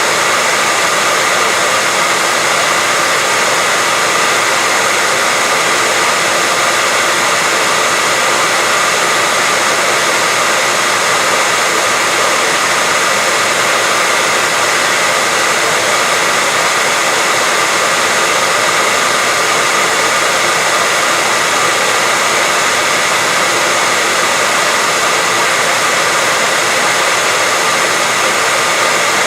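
Continuous white noise: an even, unchanging hiss, weighted toward the upper range, with no change in level.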